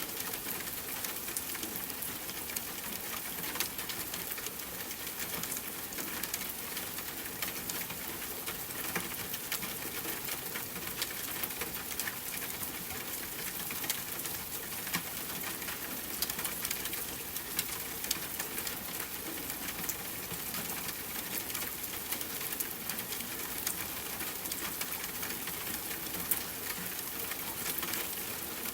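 Steady rain falling together with a campfire crackling: a constant hiss dotted throughout with many small, sharp crackles and pops.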